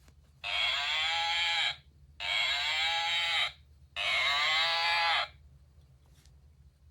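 A recorded cow moo played three times in a row, each about a second and a quarter long with short gaps between. The three calls look nearly identical and have no low end, like the same sample played back.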